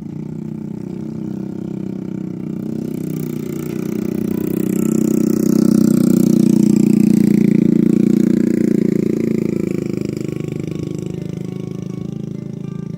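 A motor vehicle's engine running steadily as it passes by, growing louder to a peak about halfway through, then fading.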